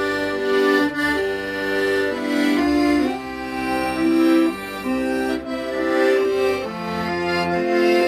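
Solo accordion playing a slow melody over held chords and bass notes, the notes changing about every half second.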